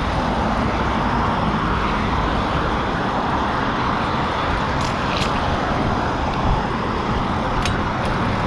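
Steady rushing wind and road noise on the camera microphone of a fixed-gear bike being ridden, with a few faint clicks about five and eight seconds in.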